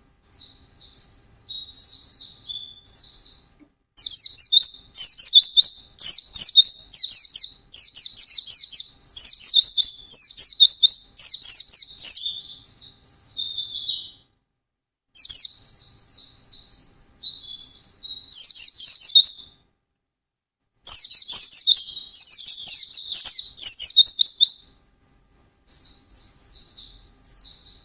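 White-eye (pleci) singing a fast, high-pitched warbling song of rapid descending notes in long bouts, with short pauses about 14, 20 and 25 seconds in.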